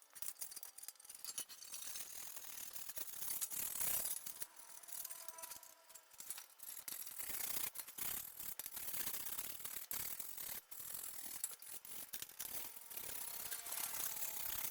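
Irregular clicks, knocks and scraping of hand-tool work on a metal motorcycle exhaust, over a steady hiss.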